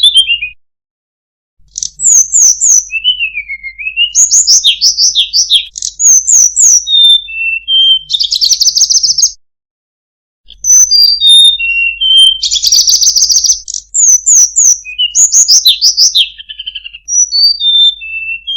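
Tledekan gunung (Sunda robin) singing a rapid, varied song of clear whistles, falling slurred notes and fast buzzy trills, high-pitched. It comes in two long runs with a short break about nine seconds in.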